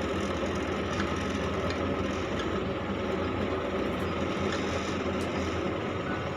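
A motor running steadily, with an even low hum and a hiss.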